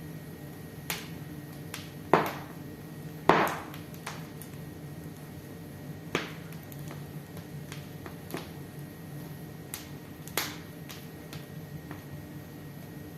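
Wood fire in a fireplace crackling: irregular sharp pops and snaps, the two loudest about two and three seconds in, over a steady low background of the burning.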